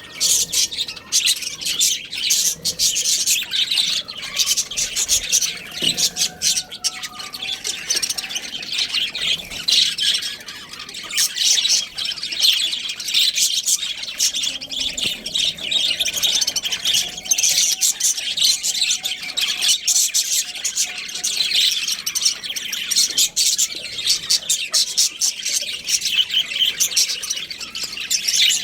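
A flock of budgerigars chattering, many high chirps and squawks overlapping without a break.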